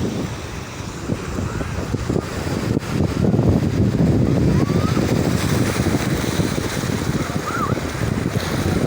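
Sea waves surging and washing onto the shore, with wind buffeting the microphone; the surf swells louder about three seconds in.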